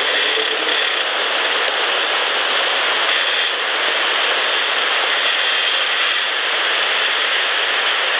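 Steady rushing noise in a boosted outdoor field recording, with no distinct events standing out.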